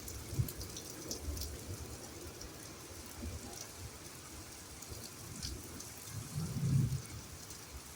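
Steady rain with scattered drop ticks and a brief low rumble about six and a half seconds in.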